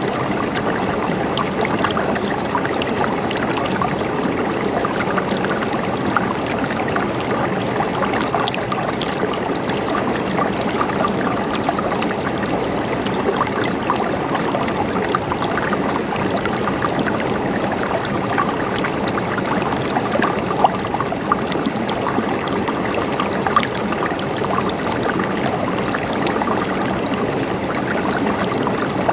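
A stream of running water flowing steadily, an even rush dotted with many small splashes.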